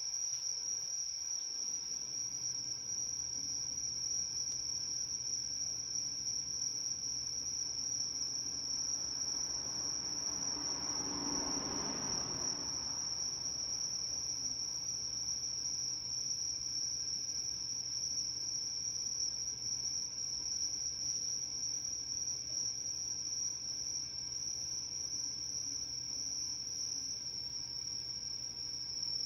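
Singing insects giving one continuous, steady high-pitched trill. A faint rushing noise swells and fades near the middle.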